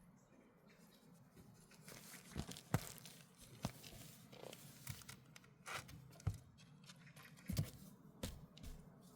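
Kittens scrambling and play-fighting: irregular light thumps, taps and scratchy rustling that start about two seconds in.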